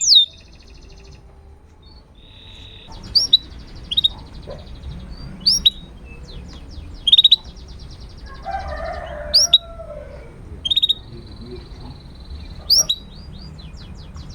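Domestic canary singing: loud, sharp chirps that sweep in pitch, repeated every second or two, with faint rapid trills between them. A brief lower, rougher sound comes near the middle.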